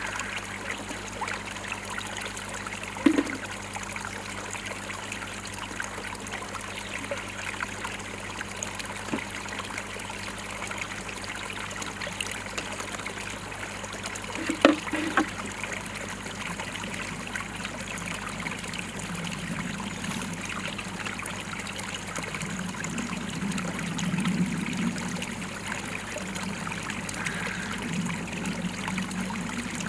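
Water trickling steadily into a koi pond, with a low steady hum beneath and two short knocks, about three seconds and fifteen seconds in.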